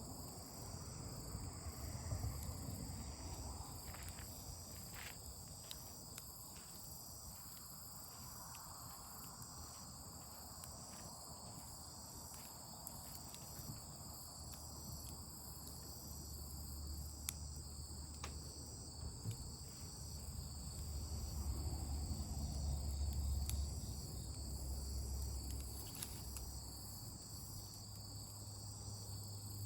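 Insects trilling steadily in high, pulsing bands, with scattered faint crackles from a campfire.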